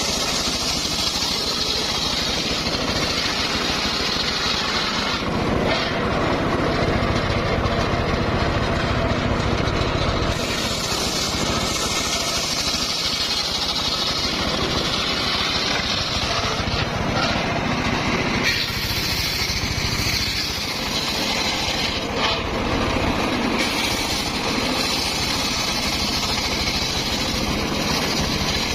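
Circular sawmill running under load, its engine and blade making a steady loud noise as it cuts timber. The higher, hissing part of the sound grows and fades every few seconds.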